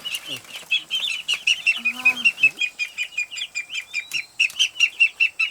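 Young Muscovy ducklings peeping, high and shrill, about five or six peeps a second without a break, with scattered rustling and scuffling as they move about.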